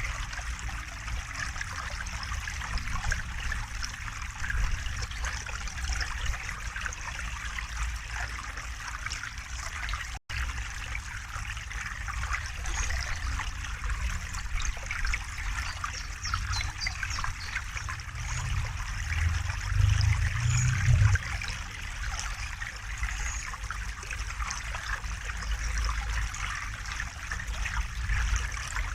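River flowing steadily, a continuous rushing and trickling of water. The low rumble swells for a few seconds about two-thirds of the way in, and the sound cuts out for an instant about ten seconds in.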